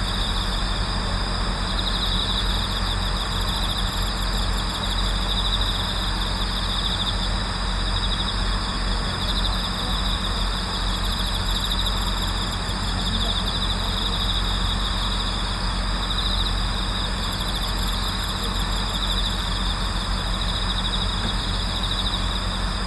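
Night chorus of autumn insects, bell crickets among them: steady high trilling, with a louder trill that swells every three to four seconds, over a steady low hum.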